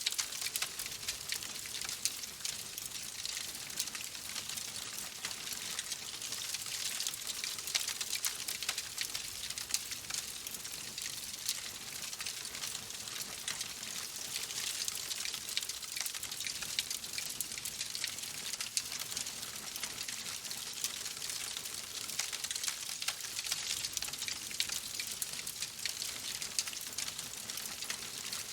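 Fireplace wood fire crackling: a steady hiss dotted with many small pops and snaps.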